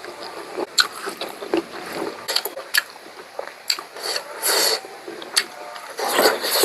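Close-up eating sounds of pork curry: wet chewing and mouth smacks, with many short sharp clicks and a few brief louder noisy bursts.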